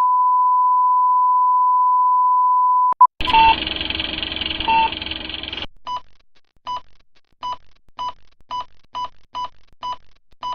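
Electronic beep effect: a steady high beep held for about three seconds, then a burst of hiss with two short beeps in it, then a run of short beeps that come faster and faster.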